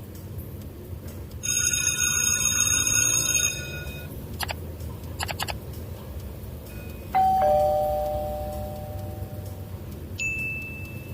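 A string of sound effects over a steady low hum: a bell-like ring lasting about two seconds, a few sharp clicks, then a two-note falling chime like a doorbell about seven seconds in, and a short high beep near the end.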